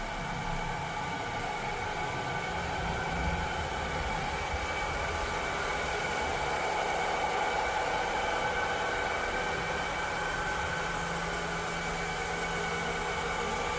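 Cleaning robot running steadily: a motor whir with several steady whining tones over a rushing noise, and a low hum that comes and goes underneath.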